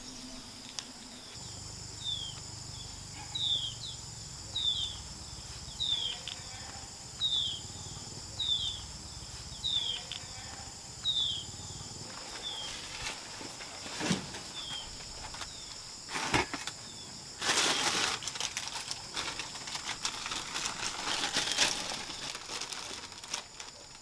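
Outdoor country ambience: a bird repeats a short, high, falling chirp about once a second, some ten times, over a steady high insect drone. A few brief rustles follow in the second half.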